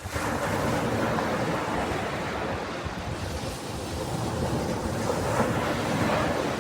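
Ocean surf: a wave breaks suddenly and washes in as a long, even hiss for about six seconds, then falls back near the end.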